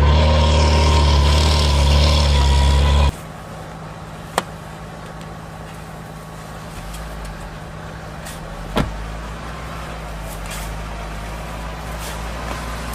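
Off-road vehicle engine running loudly and steadily, then dropping suddenly about three seconds in to a much quieter, steady low engine hum. Two sharp clicks come later.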